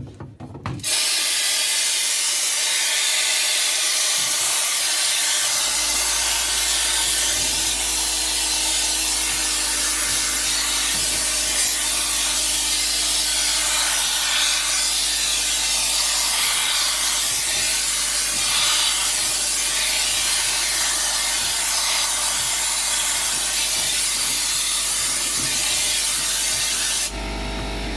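Compressed air from an air hose blowing through a dryer vent duct: a loud, steady hiss that starts suddenly about a second in and drops off near the end.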